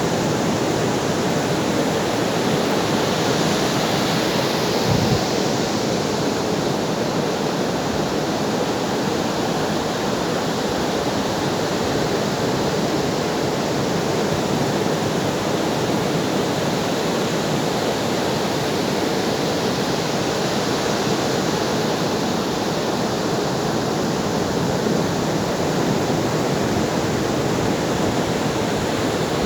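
Ocean surf: waves breaking and washing in a continuous rushing noise that swells and eases slowly, with a brief low thump about five seconds in.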